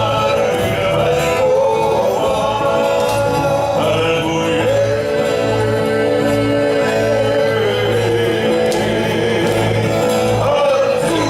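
Music with group singing and a steady low beat: a Maori song sung by the performers, with sustained held notes.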